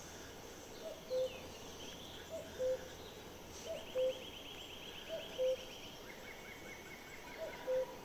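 A bird repeating a two-note call, a short higher note then a longer, lower one, about every second and a half, over faint outdoor background; a high, rapid trill comes in the middle.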